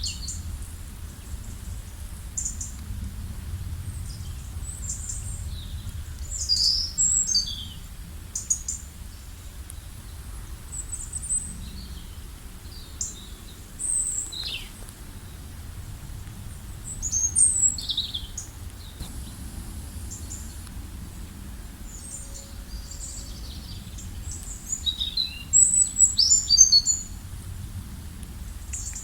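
Several songbirds chirping and trilling in short, scattered phrases, loudest in a few clusters, over a steady low background rumble.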